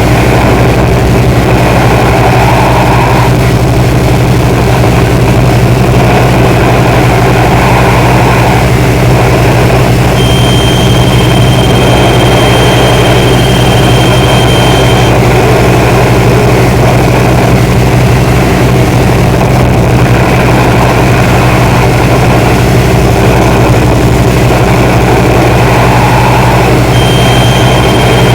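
Loud, steady droning noise with a strong low hum. A thin high tone comes in about ten seconds in, stops about five seconds later, and returns near the end.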